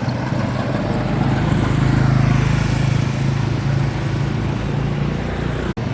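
A vehicle engine running steadily, growing louder to a peak about two seconds in and then easing off, with a brief sudden dropout near the end.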